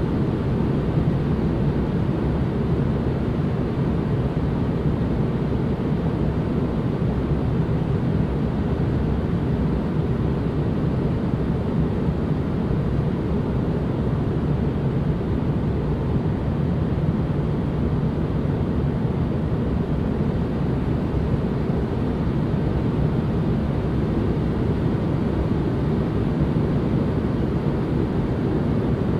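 Steady noise ambience played as relaxation white noise: an even, deep rumble with most of its weight low down and little hiss at the top, unchanging throughout.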